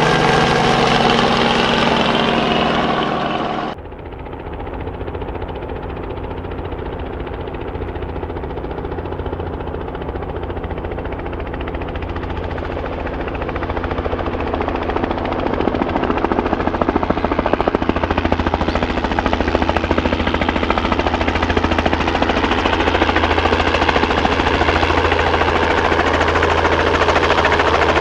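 Helicopter turbine whine and rotor noise that cuts off suddenly about four seconds in, giving way to a low, rhythmic rotor chop that grows steadily louder.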